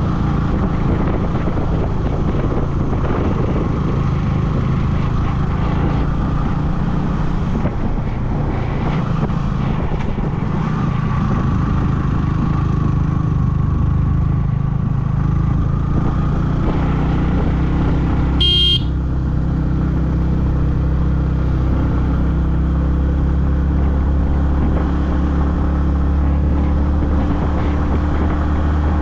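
Yamaha MT-15's single-cylinder engine running steadily while riding. A short horn beep about two-thirds of the way through.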